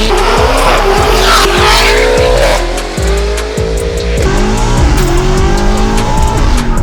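Car engine revving hard, its pitch climbing and dropping several times, with a dip about three seconds in, over background music.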